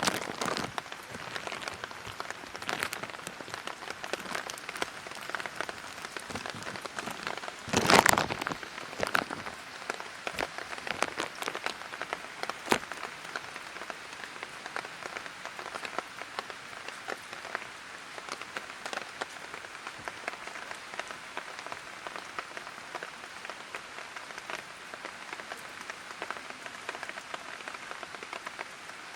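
Light rain falling, with many separate drops ticking close by over a steady hiss, and one brief louder rush of noise about eight seconds in.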